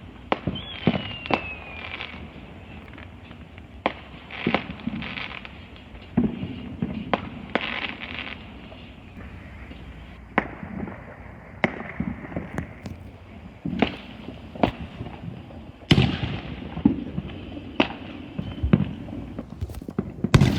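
Backyard consumer fireworks going off: a string of sharp bangs and pops at irregular intervals, with a short falling whistle near the start.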